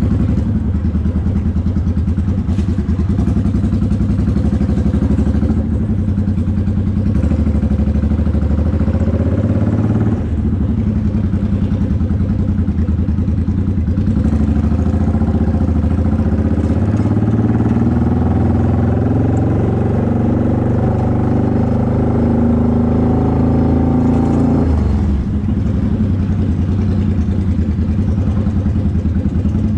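Motorcycle engine and exhaust rumbling loudly at low speed, heard from the rider's seat. About halfway through the engine speed climbs and holds, then drops back abruptly near the end.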